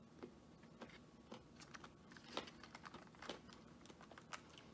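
Faint, irregular crisp clicks and crinkles of someone eating fried takeout food and handling its packaging.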